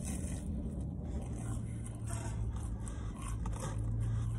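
Close chewing and crunching of fried food, with a paper food wrapper crinkling and rustling toward the end, over a low steady hum that starts about a second in.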